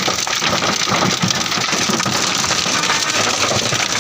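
Hail and heavy rain hitting a parked vehicle: a loud, steady clatter of countless small impacts.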